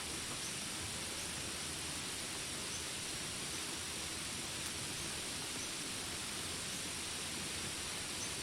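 Jungle ambience: a steady background hiss with a faint, high chirp repeating a little more than once a second.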